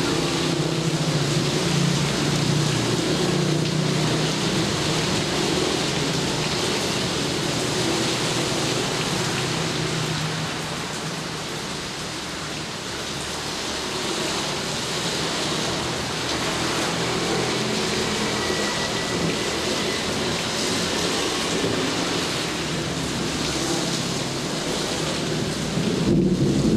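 Steady rain falling, with a low rumble of thunder underneath that swells near the end.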